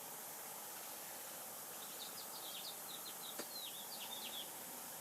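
A small songbird chirping: a quick run of short high chirps starting about two seconds in and ending a little past the middle, over a steady background hiss, with one faint click in between.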